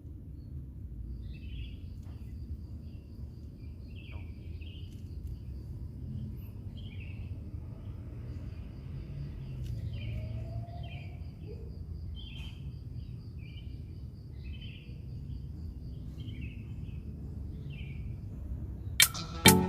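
Outdoor ambience of birds chirping, with short calls repeated about once a second and a steady, fast-pulsing high trill under them, over a low background rumble. Music comes in abruptly near the end.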